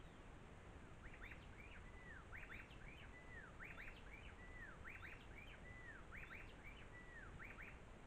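Faint bird song over steady hiss: a phrase of a drawn-out downslurred whistle followed by a quick cluster of two or three sharp notes, repeated about six times, roughly once a second, starting about a second in.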